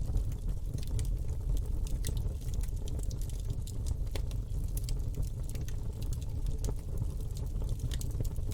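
Campfire burning, a steady low rumble of flames with frequent irregular crackles and pops of burning wood.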